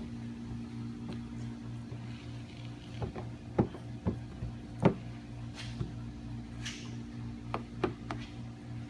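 Steady low electrical hum, with a scattered handful of light clicks and taps and a couple of soft swishes from handwork on the film-covered hood.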